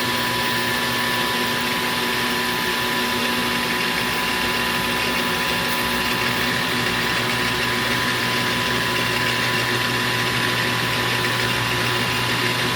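Metal lathe running steadily while turning aluminum bar stock: a constant motor hum with a few held tones and an even hiss, unchanging throughout.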